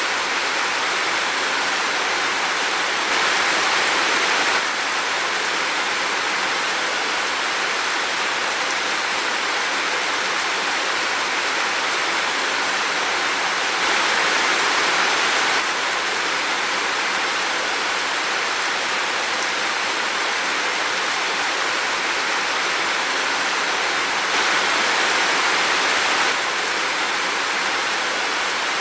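Heavy rain falling in a steady, dense hiss. It grows slightly louder three times, for a second or two each time.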